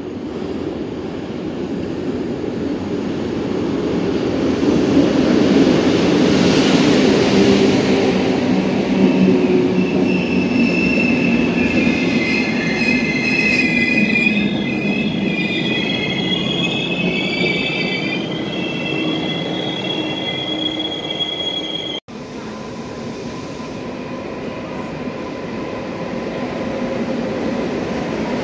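Locomotive-hauled passenger train arriving at an underground station platform, its coaches rolling past with a loud rumble. High squealing of brakes and wheels runs from about ten seconds in as it slows. After a sudden cut near the end, a quieter rumble of a second train, a Koleje Mazowieckie electric multiple unit, with a thin steady whine.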